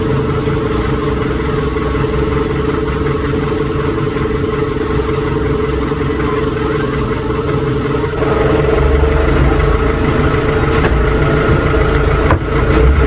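Car engine and road noise running steadily while driving, growing louder from about eight seconds in.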